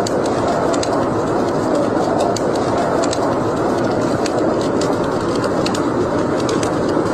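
Wood fire burning in a fireplace: a steady rushing roar of flame with frequent sharp crackles and pops scattered irregularly throughout.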